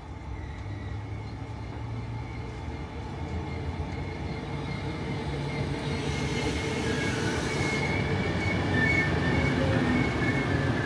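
Trenord regional train pulling into the station, its rumble growing louder as it draws alongside. From about six seconds in, high-pitched wheel squeal rises over the running noise.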